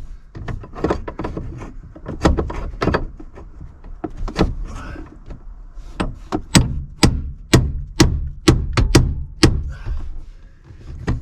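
Repeated hammer blows knocking at a seized part to drive it free: scattered sharp knocks at first, then a steady run of about eight blows, roughly two a second, from about six seconds in.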